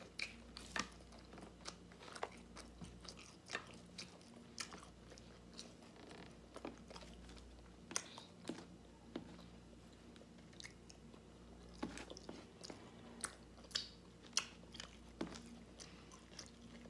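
A person chewing and biting food close to the microphone, with irregular crisp crunches and wet mouth clicks.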